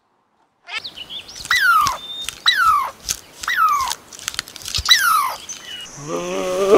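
A small animal's high cries, about four of them, each falling sharply in pitch, with a few clicks between them. A lower, longer call begins near the end.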